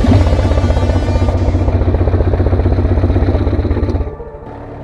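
Polaris Sportsman 335 ATV's single-cylinder four-stroke engine running hard under throttle with a fast even firing pulse, easing off about four seconds in to a lower, steadier running sound.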